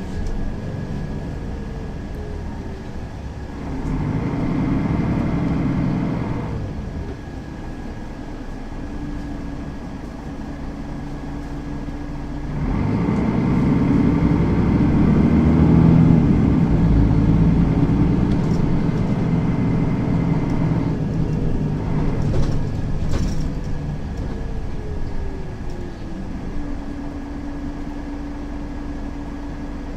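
Mercedes-Benz Citaro facelift city bus under way: its engine pulls harder and louder twice, briefly about four seconds in and again for several seconds from about the middle, then eases off. A falling whine follows near the end as the bus slows.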